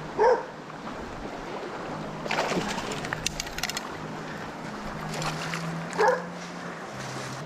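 A dog yelping twice, a short high call near the start and another about six seconds in, over a low steady hum. A flurry of rapid clicks and rattles comes around the middle.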